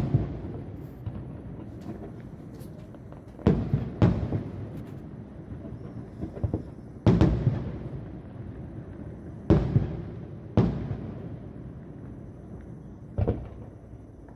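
Aerial fireworks shells bursting, heard from about a kilometre away: about seven sharp bangs at uneven spacing, some in close pairs, each trailing off in a low rumbling echo, with a few lighter pops between them.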